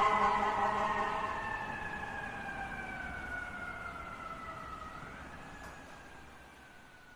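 Fire truck siren wailing, its pitch sliding slowly down as it fades away, with a short rise in pitch about five seconds in. A second, lower tone sounds with it at first and stops about a second and a half in.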